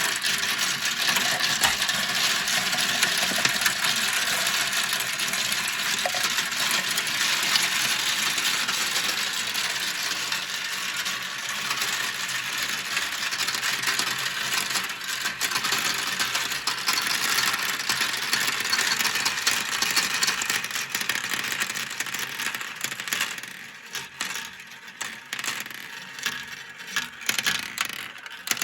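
Many glass marbles rolling and clattering down a plastic marble run, a dense continuous rattle of clicks that thins out after about 23 seconds into scattered separate clicks as the last marbles finish.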